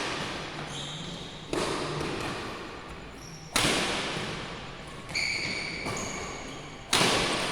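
Badminton racket strokes on a shuttlecock during a rally: three sharp smacks about two seconds apart, each ringing on with the long echo of a large sports hall.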